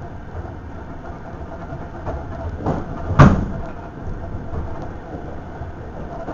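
Steady running rumble of a moving electric commuter train heard from inside the carriage, with a sharp loud thump a little past three seconds in and a smaller one just before it.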